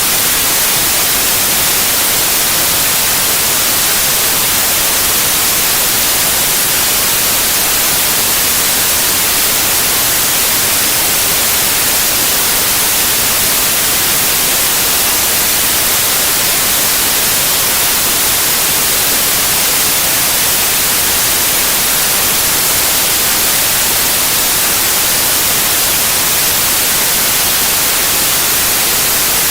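Steady synthetic white noise: an even, unchanging hiss across the whole range, loud and without any events.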